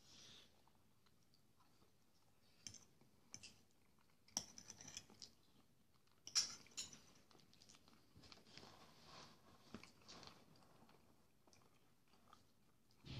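Quiet chewing and mouth sounds of a man eating fried sausage and wheat porridge, with scattered clicks of a fork against the plate; the loudest clicks come about six seconds in, as the fork goes into the sausage.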